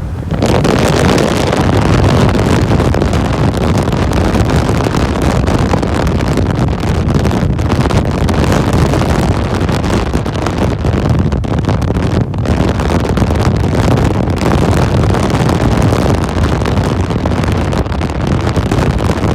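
Heavy wind buffeting the microphone in an open Mahindra Roxor with no windshield, driving on a dirt road, with the vehicle's running and road noise underneath. The rush comes up suddenly about half a second in, then holds steady.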